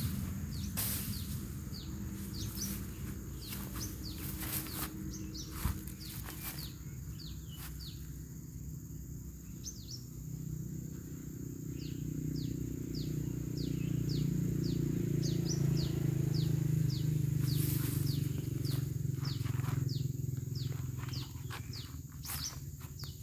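A bird calling over and over in short downward chirps, about two a second, with a low drone that swells up in the middle and fades again. A few rustles and knocks come and go.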